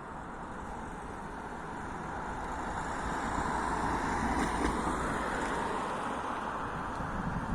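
A train passing slowly, its rumble building to a peak about four to five seconds in and then easing off.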